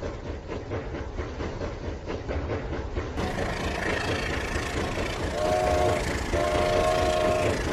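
A toy train running on its track with a fast, steady clicking rattle. It is followed by a train horn blown twice, a chord of several notes, first short and then longer.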